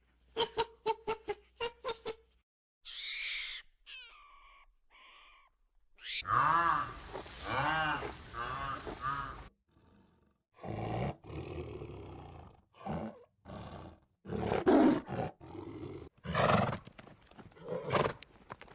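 Animal calls of several kinds, one after another: a quick run of short grunt-like pulses, then a few high calls, then a long loud call that wavers up and down in pitch, followed by more scattered calls.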